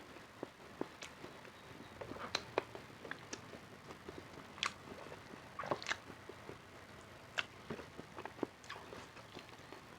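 A person eating close to the microphone: chewing and biting, with irregular sharp wet clicks and smacks, a few standing out louder than the rest.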